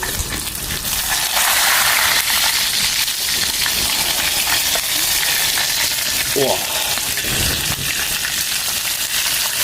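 Pork fat, ginger and pickled chilies sizzling in hot oil in a pot: a loud, steady frying hiss that swells about a second in.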